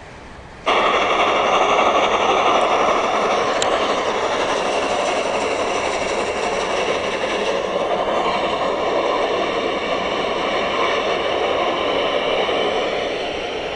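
A train running on the rails: a steady rushing noise with several high, steady tones over it, starting abruptly a little under a second in.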